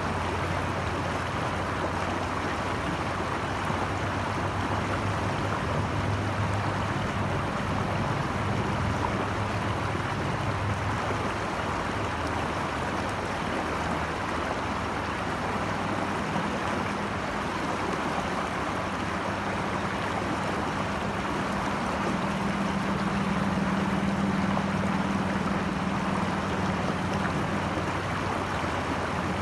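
Steady rush of flowing water from a stream or waterfall, with a low hum underneath that swells and fades.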